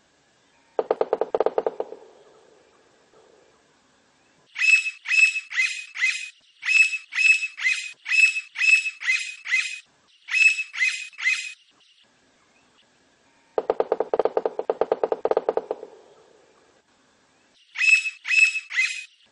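Blond-crested woodpecker calling: runs of loud, evenly spaced high notes, a bit over three a second in groups of three to nine. Twice, a fast low rattle of about a second and a half breaks in between them.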